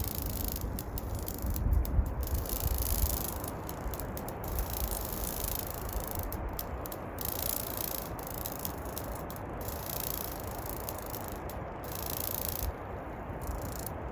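Wind rumbling on the microphone over a steady rustling hiss.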